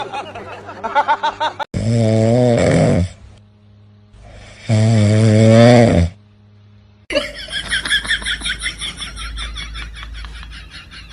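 Two loud snores, each about a second and a half long, about three seconds apart. A different sound with a fast repeating pattern takes over about seven seconds in.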